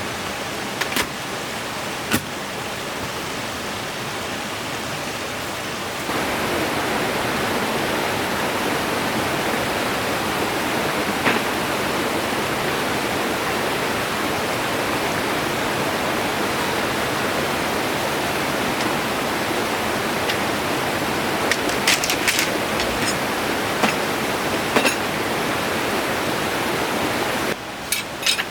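A steady rushing noise, stepping up in level about six seconds in, with a few short clicks near the end.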